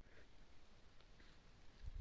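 Near silence, with a few faint, scattered ticks and a low hum.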